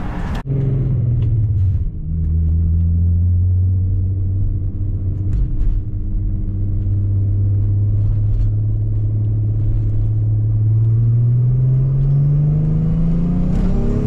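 Turbocharged VW Corrado engine heard from inside the cabin while driving. The revs drop in the first couple of seconds, hold steady while cruising, then climb smoothly over the last few seconds as the car accelerates.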